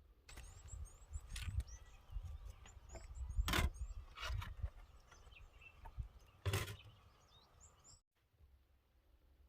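Outdoor ambience with small birds chirping in short high calls, a handful of sharp knocks and clatters (the loudest about three and a half and six and a half seconds in), and a low rumble underneath; the sound cuts off abruptly near the end.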